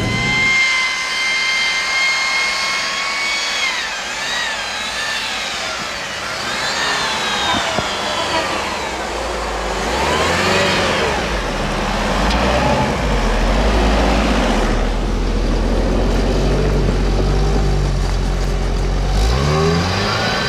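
GAZ Volga 31105's engine running at high revs while pushing through snow, its pitch holding steady for a few seconds and then rising and falling repeatedly as the throttle is worked.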